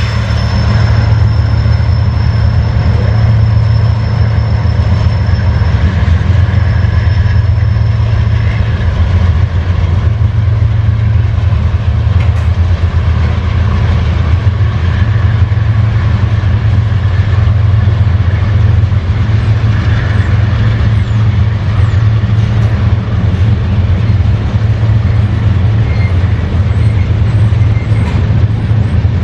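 Freight train rolling past: a loud, steady low rumble of the cars on the rails.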